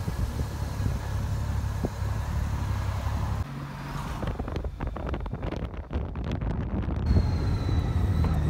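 Honda Goldwing touring motorcycle under way: a steady low engine and road rumble with wind noise. The sound changes abruptly about three and a half seconds in, and a faint high whistle comes in near the end.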